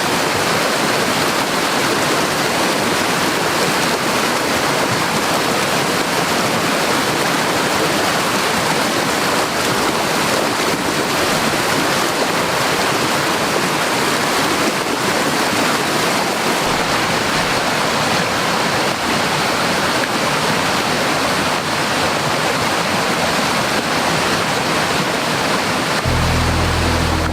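Steady, loud rush of water from a rain-swollen mountain stream in spate. Music with low bass notes comes in near the end.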